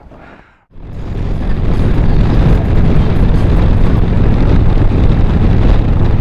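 Harley-Davidson Milwaukee-Eight 117 V-twin running steadily while riding, with wind rushing over the helmet microphone. The sound comes in about a second in, after a short gap, and then holds steady.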